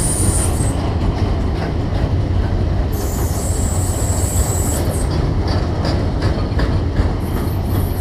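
Freight train wagons rolling past on the rails with a steady heavy rumble. A high-pitched wheel squeal sounds in the first second and again from about three to five seconds in. A run of wheel clicks over rail joints follows.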